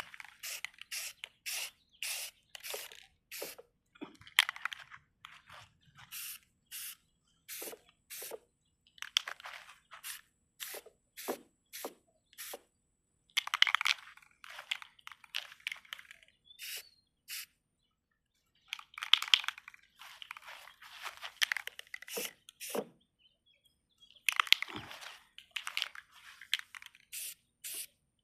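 Aerosol spray paint can (Rust-Oleum American Accents) sprayed in many short hissing bursts, with a few longer runs of back-to-back passes, as a coat of paint goes on.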